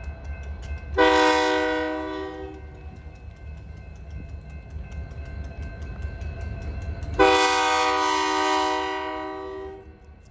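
Diesel locomotive chime air horn sounding two blasts, a shorter one about a second in and a longer one later that fades away near the end, over the steady low rumble of a passing freight train.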